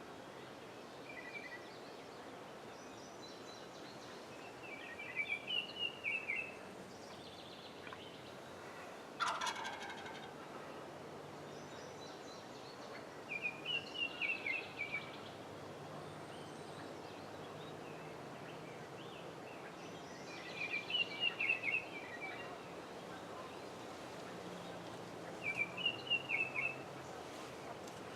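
A wild turkey tom gobbling four times, each gobble a quick rattling burst about a second and a half long, spaced roughly seven seconds apart. A single short, sharp call sounds once about nine seconds in.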